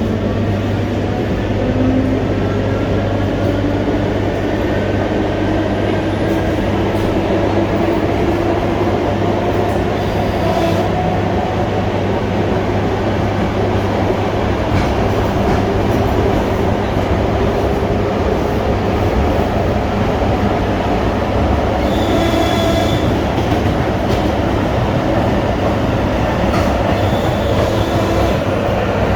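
ER9T electric multiple unit running, with a steady low hum and a whine that rises slowly in pitch as the train picks up speed, over constant wheel and track noise. A brief high squeal sounds about two-thirds of the way through.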